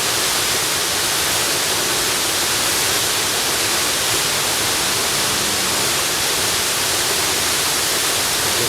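Waterfall rushing: a steady, unbroken hiss of falling water, strongest in the high end.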